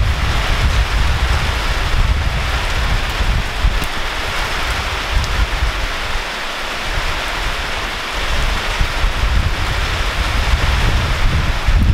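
Heavy rain pouring steadily, with gusty wind rumbling on the microphone; the wind rumble eases for a moment around the middle.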